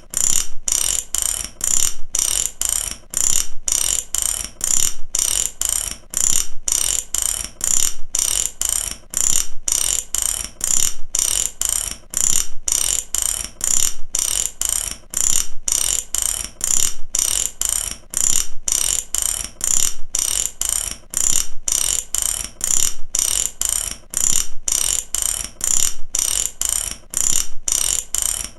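Ratchet wrench clicking in repeated strokes: runs of fast metallic clicks, about one run a second, going on evenly.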